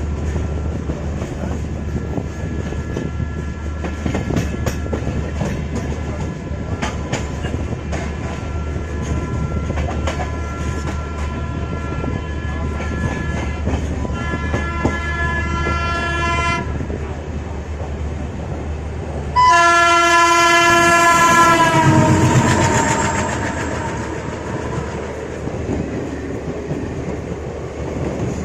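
Train coaches running at speed: a steady rolling rumble with the clickety-clack of wheels over rail joints. A train horn sounds, faint at first, then a short blast, then a loud long blast about two-thirds of the way in whose pitch drops as it fades.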